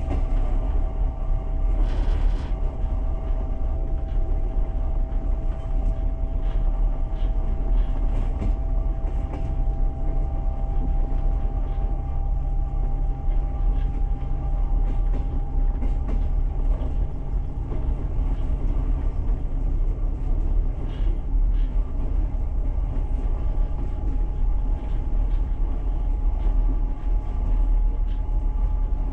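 A passenger train coach running along the track, heard from inside the carriage: a steady low rumble with a faint whine that rises slowly in pitch.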